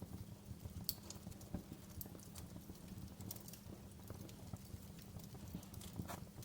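Wood fire burning in a fireplace: a low steady rumble of flames with irregular sharp crackles and pops, the loudest about a second in.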